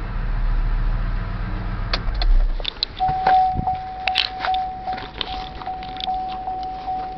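Cadillac DTS's Northstar V8 running, then shut off about two and a half seconds in. Half a second later the car's warning chime starts, dinging steadily about two to three times a second, with light clicks over it.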